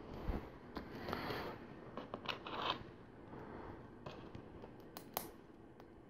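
Plastic LEGO pieces being handled and fitted together: scattered light clicks and soft rustling, with two sharper clicks near the end.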